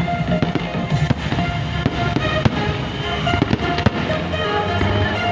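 Fireworks exploding in a rapid, irregular string of bangs and crackles, with music playing at the same time.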